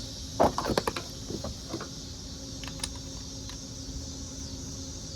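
A short clatter of small metal clicks and clinks, bolts and hand tools being handled while the compressor's shaft seal cover is bolted back on, with one more click a little later. A steady background hum runs underneath.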